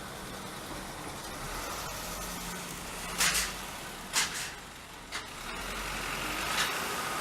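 Steady rumble of vehicles with several short, sharp hisses, the loudest about three and four seconds in, and a faint steady whine near the end.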